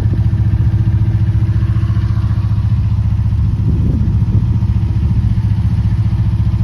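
Narrowboat engine running steadily, a loud, rapid, even low chugging.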